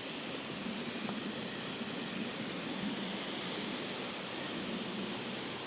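Small waterfall rushing steadily: a constant, even hiss of falling water.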